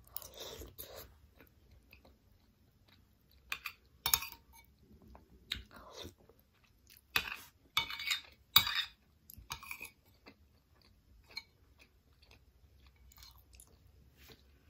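Close-up wet chewing and mouth sounds of someone eating soft sticky glutinous rice in durian kolak, in irregular bursts with a few sharp clicks, growing sparser after about ten seconds.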